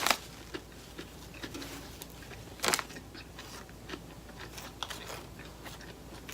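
Close-up eating sounds: a bite right at the start and another about two and a half seconds later, with chewing and small mouth clicks between.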